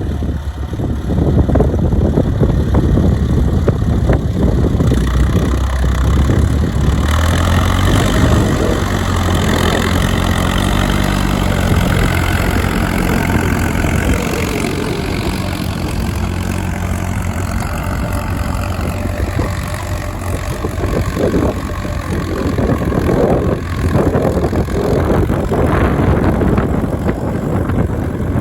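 Case DC tractor's four-cylinder engine running steadily while pulling a mouldboard plow.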